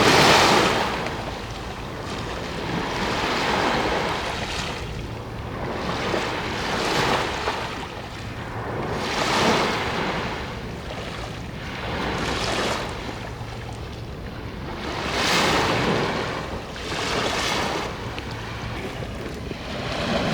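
Waves washing onto a seashore in strong wind, the noise swelling and fading every two to three seconds, over a steady low rumble of wind on the microphone.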